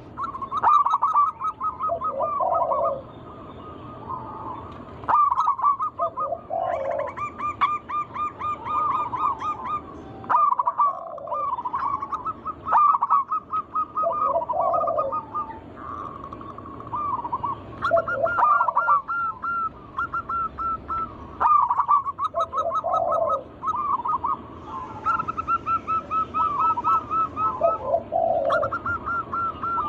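Zebra doves (perkutut) cooing: rapid trilled coo phrases near one pitch with short lower notes between them, repeating every few seconds and often overlapping.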